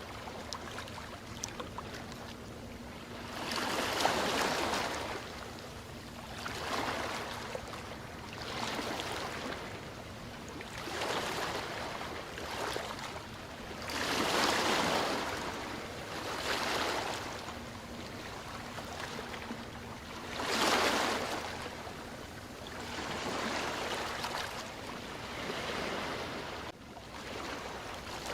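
Ocean surf washing in and drawing back, rising and falling in swells every few seconds, with three louder breaking waves.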